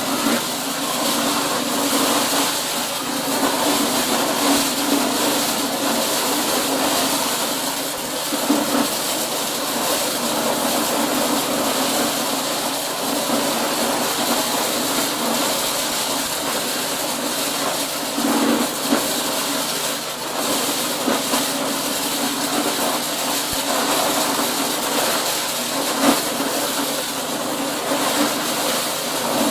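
Corn-shelling machine running continuously: a steady mechanical drone under an even rushing noise that does not let up.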